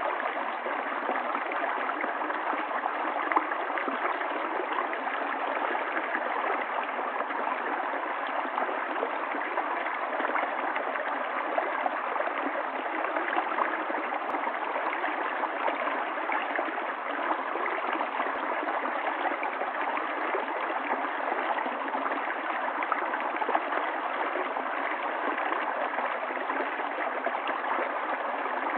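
Stream water running steadily, an even, unbroken rush of flowing water.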